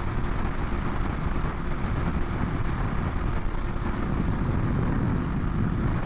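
Steady wind rush over a helmet chin-mount microphone while riding a 2020 BMW S1000RR, with the bike's inline-four engine running evenly underneath at a steady speed.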